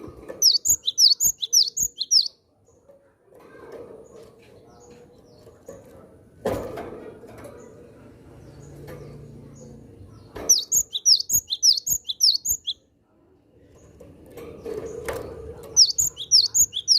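Cinereous tit (gelatik batu) calling in three bursts of rapid, high chirps, each burst about two seconds long. There is a single sharp knock about six seconds in.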